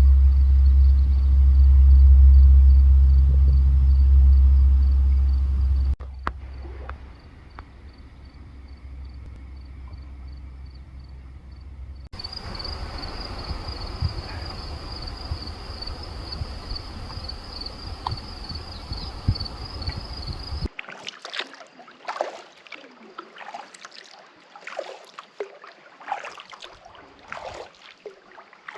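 Kayak paddling sounds: a low wind rumble on the microphone at first, then a water hiss under a high, steady pulsing trill, and for the last several seconds paddle blades splashing and dripping in irregular strokes.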